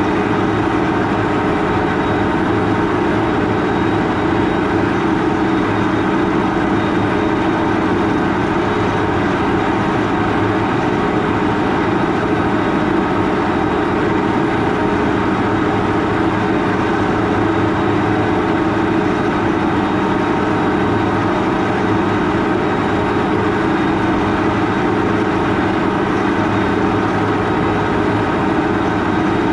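Large farm tractor's diesel engine running steadily under load, an even hum with a strong low steady tone and no change in speed.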